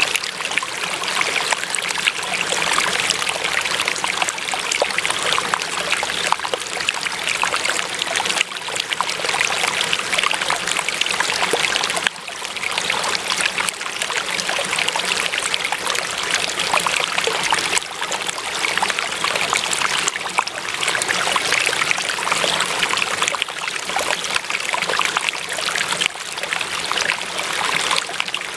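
Running water, like a stream, flowing and trickling steadily with a dense, bubbling splash.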